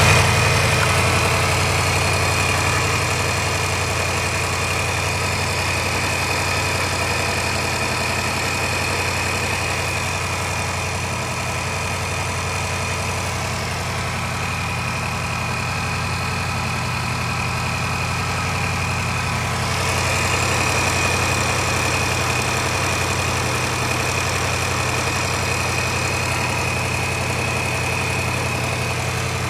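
Range Rover L405 5.0-litre supercharged V8 idling steadily with a timing-chain rattle from a failed chain tensioner.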